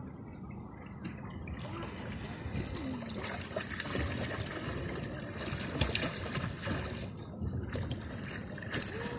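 Water trickling and gurgling, with many small scattered clicks and a few short bubbling pitch glides.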